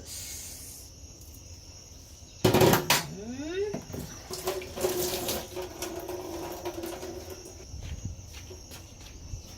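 Kitchen tap running into a sink, with a loud splashy burst about two and a half seconds in and a steady stream for a few seconds after. Crickets chirp steadily in the background.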